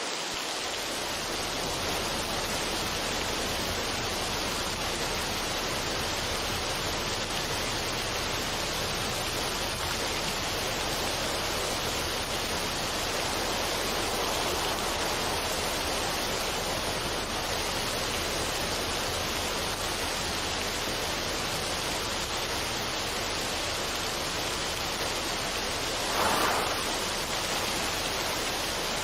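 Steady, even rushing noise with no music or voice, rising briefly in a louder swell about 26 seconds in.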